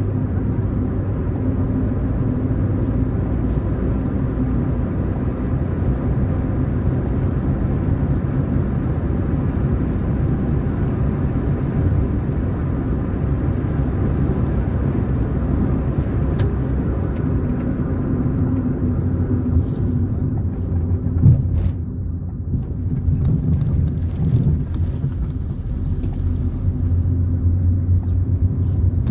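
Car driving on a road: steady low engine hum and tyre rumble, with a single sharp knock about two-thirds of the way through.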